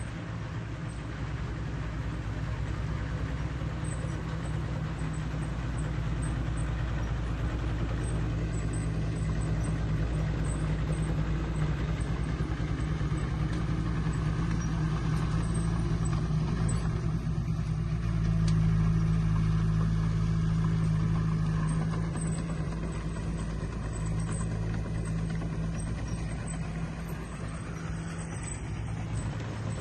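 Diesel engine of heavy earthmoving machinery running steadily with a deep drone, growing louder a little past the middle and then easing off.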